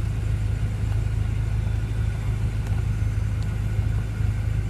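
BMW M5 F10's 4.4-litre V8 idling, a steady low rumble.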